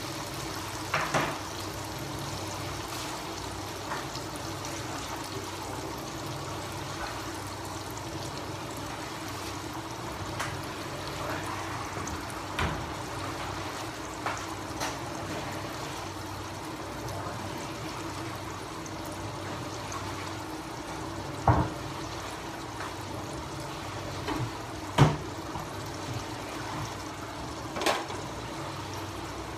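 Diced tomatoes, onion and garlic sautéing in a frying pan on a gas stove, an even sizzling hiss. A few sharp utensil knocks cut through it, the loudest about 25 seconds in.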